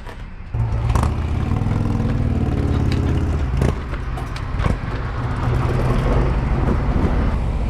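Harley-Davidson Road Glide's V-twin engine comes in suddenly about half a second in and runs, its pitch climbing for a few seconds and then holding steady. Two sharp clicks come near the middle.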